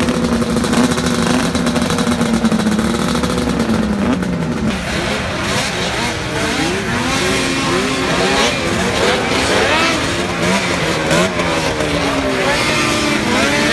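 Two-stroke race snowmobile engines running steadily, then, from about four and a half seconds in, several of them revving up and down at once.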